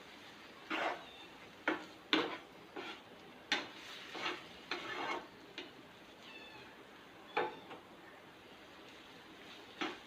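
A spoon stirring and scraping chicken filling in a pan in short, irregular strokes while the filling cooks down in chicken stock.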